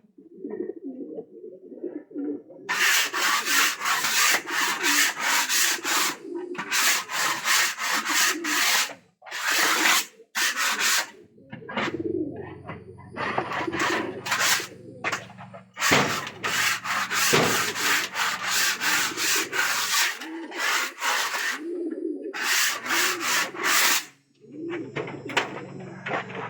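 Pigeons cooing throughout, over a long run of rough scraping strokes at about two a second that stop shortly before the end. A low steady hum comes in about halfway.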